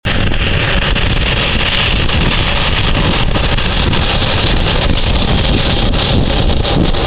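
Jet blast from an Airbus A320's engines at takeoff power: a loud, steady roar with the blast buffeting the microphone.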